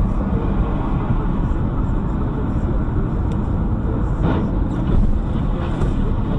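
A car's steady engine and road noise that cuts in suddenly, with a short hiss about four seconds in.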